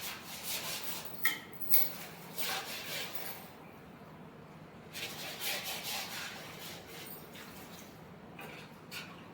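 Buffalo being milked by hand: short hissing squirts of milk striking a metal pail in a quick run of strokes, pausing briefly near the middle before starting again.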